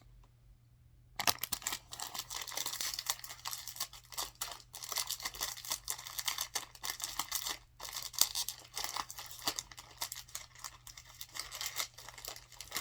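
Plastic snack wrapper crinkling and crackling as hands struggle to tear it open, starting about a second in and continuing with many small crackles.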